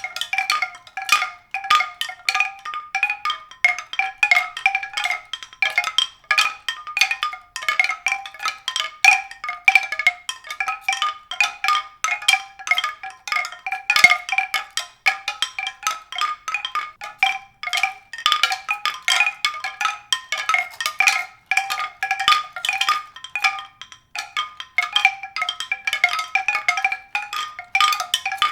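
Music of rapid, uneven struck notes, ringing and pitched, played continuously without a pause.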